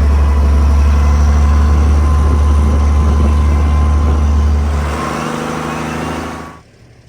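Cummins diesel engine running loud with a steady deep drone; it eases a little about five seconds in and cuts off suddenly near the end.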